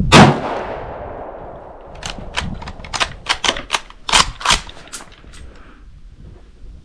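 A single rifle shot from an 8mm Mauser straight-pull rifle, its report ringing out and fading over about a second and a half. A quick run of about a dozen sharp clicks and clacks follows.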